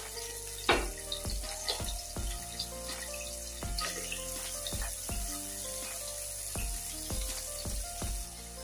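Paneer cubes sizzling as they shallow-fry in a spoonful of hot refined oil in a nonstick pan: a steady hiss with crackling pops and a sharp spit about a second in, as more cubes are dropped into the oil by hand. Soft background music plays underneath.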